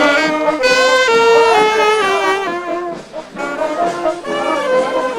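Brass band music, with trombones and trumpets playing a melody in held notes that step up and down and a short break about three seconds in.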